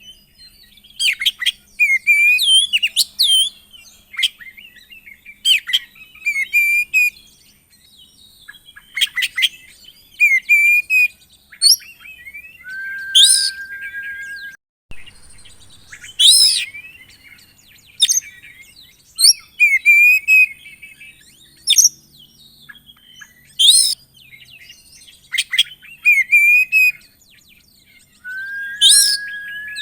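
Oriental magpie-robin (kacer) singing loudly in a varied song full of imitated phrases: sharp rising whistles and chirps in bursts every second or two, with a long held whistle twice, about halfway through and near the end.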